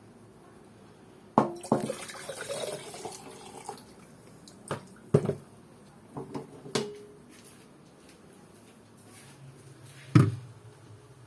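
Hot meltwater dripping and splashing into a pot set under a freezer's ice build-up as the ice melts, with several sharp knocks. There is a splashing patch about a second and a half in, and a low steady hum begins near the end.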